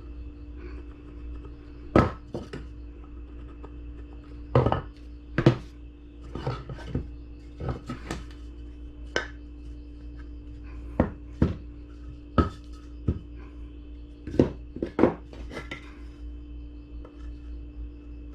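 Irregular sharp knocks and clacks of hard objects, wood and tools, being handled and set down, over a steady hum.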